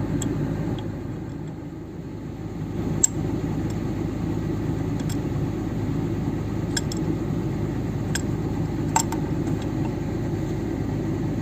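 Excavator's diesel engine idling with a steady low rumble, dipping briefly between one and two and a half seconds in. A few sharp clicks sound over it, the loudest about three seconds in and another about nine seconds in.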